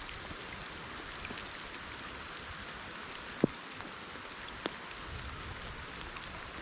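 Steady rain falling, an even hiss with scattered drops ticking close by. A sharp, louder tick stands out about halfway through, with a smaller one a second later.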